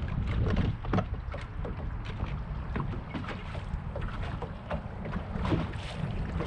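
Wind buffeting the microphone on an open fishing boat, with water lapping and slapping against the hull in irregular little splashes.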